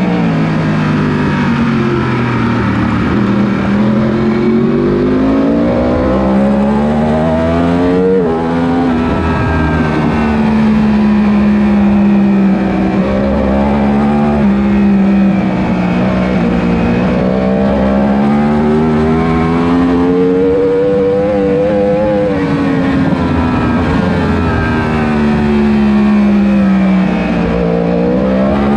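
1000 cc superbike racing motorcycle engine at race speed, its pitch climbing and falling over several seconds at a time as the bike accelerates and slows, with a sharp drop about eight seconds in.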